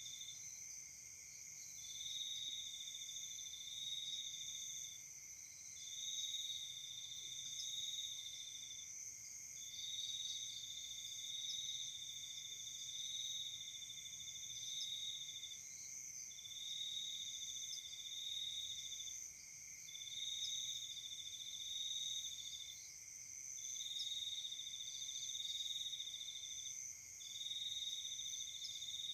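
Crickets and other night insects calling: a steady high-pitched chirring, with one trill that sounds in bouts of two to six seconds separated by short pauses.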